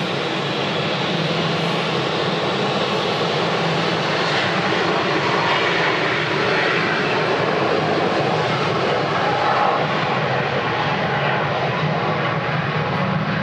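Jet airliner engines running, a steady loud rush that swells slightly about ten seconds in.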